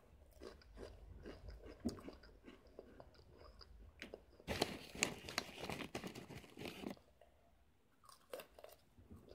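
Close-up crunching and chewing of Chester's Flamin' Hot Fries, crisp corn-and-potato snack sticks, in the mouth. Loudest from about four and a half to seven seconds in, with a few small clicks near the end.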